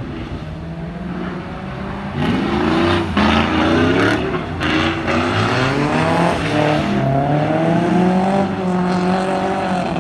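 LS3 V8 engine of a drift car, revving through repeated rising and falling sweeps. It is lower for the first two seconds, then louder and higher once it is pushed about two seconds in.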